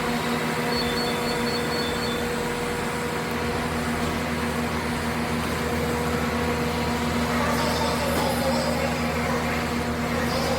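Steady hum of a train carriage interior: an even drone with a constant low pitch. A brief run of faint high beeps comes about a second in.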